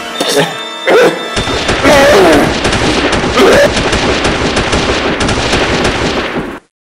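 A loud, dense crackling din like rapid gunfire, with gliding cries rising and falling over it a few times; it cuts off abruptly shortly before the end.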